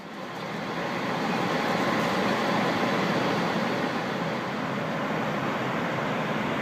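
Steady flight-deck noise of a Boeing 767 on approach: a constant rush of airflow and engine noise, fading up over about the first second.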